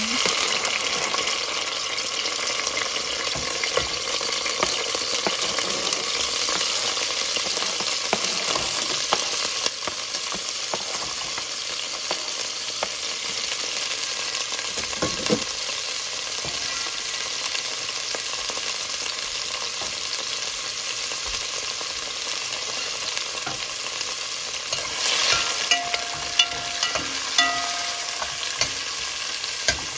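Chopped onion, garlic and peppers sizzling in hot oil in a metal pot, loudest in the first ten seconds or so and then settling into a steady fry. Near the end a metal spoon stirs them, clinking and scraping against the pot.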